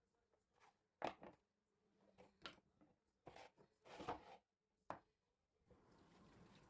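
A few soft, separate clicks and knocks of household things being handled, then a tap turned on near the end, water running with a steady hiss.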